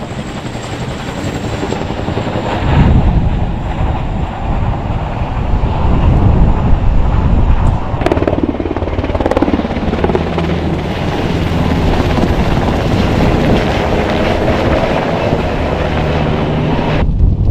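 Helicopter flying, with steady rotor and engine noise, cut off suddenly near the end.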